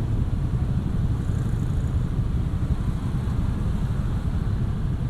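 Steady low rumble of a motorcycle riding along a city street, wind buffeting the camera microphone mixed with engine and road noise.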